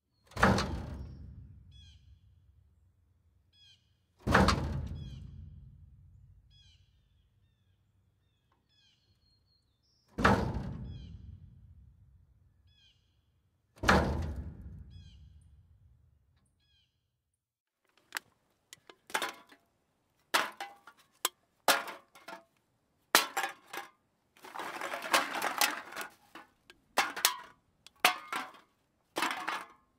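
A heavy dumpster lid slammed shut four times, each slam a booming thud that dies away over several seconds, with birds chirping faintly between the first slams. From about two-thirds of the way in comes a quick clatter of aluminium cans knocking together.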